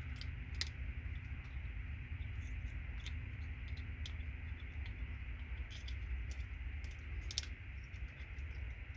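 Small scattered metallic clicks and snaps of gold-plated RJ45 connector pins being cut off with side cutters, with two sharper snaps, one under a second in and one about seven seconds in, over a steady low rumble.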